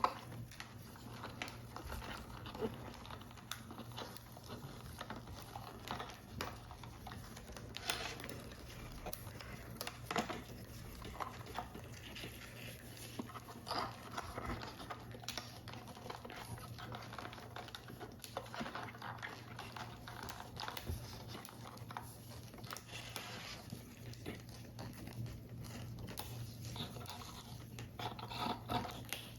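Thin card paper being handled during paper-model assembly: irregular light rustles, creases and small taps of paper parts, over a steady low hum.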